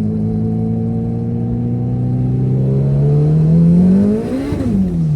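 Car engine accelerating under load, its revs climbing steadily for about four seconds, then dropping sharply near the end as it shifts up a gear.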